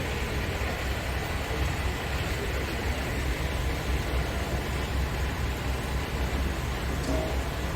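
Scania G500 truck's 13-litre inline-six diesel engine idling steadily.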